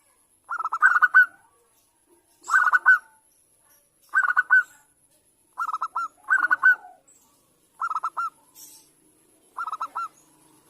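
Female zebra dove (perkutut) calling: short phrases of rapid, trilled cooing notes, repeated about every one and a half to two seconds, about seven times.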